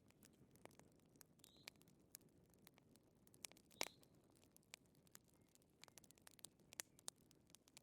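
Fireplace fire crackling faintly: irregular small pops and snaps over a low hiss, with one sharper pop about four seconds in.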